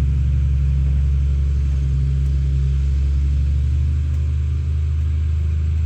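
Six-wheel dump truck's diesel engine pulling in first gear as the truck climbs a pit ramp: a steady, low drone.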